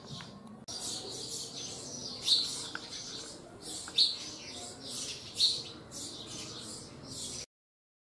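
Small birds chirping in quick, repeated high chirps, with three louder calls about two, four and five and a half seconds in. The sound cuts off abruptly near the end.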